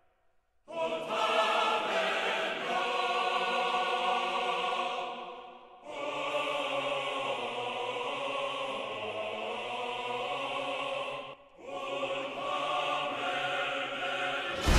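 Choral music: three long held chords, each cutting off briefly before the next.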